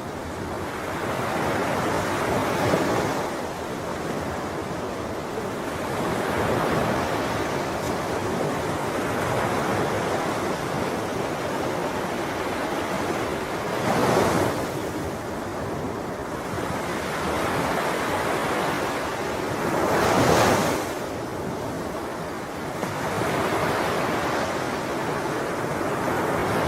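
Sea waves rushing in and washing back in a continuous surge, with louder breakers about 3, 14 and 20 seconds in and again at the very end.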